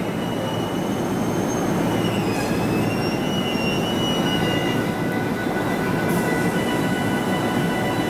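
Steady rumble of a train on the tracks, with thin high-pitched wheel squeal tones over it.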